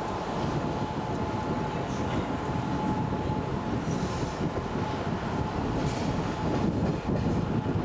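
Passenger train running on the rails, heard from inside the carriage: a steady rumble of wheels and carriage with a faint high whine running under it.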